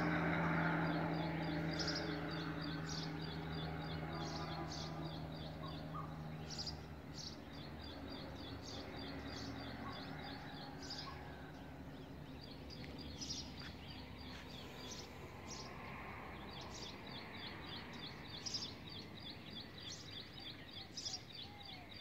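Birds chirping: a rapid high twittering runs on throughout, with sharper single calls about once a second. A low steady hum fades out over the first six or so seconds.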